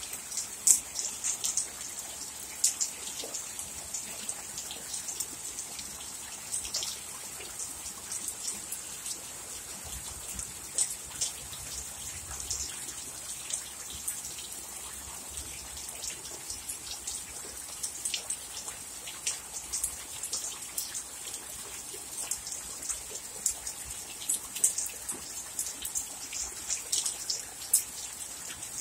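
Heavy rain downpour: a steady hiss of rain with frequent sharp taps of drops landing close by, the taps coming thicker near the end.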